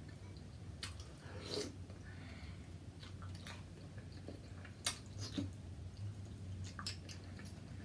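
Close-up chewing of seafood boil, with scattered wet mouth smacks and sharp clicks, the sharpest about five seconds in.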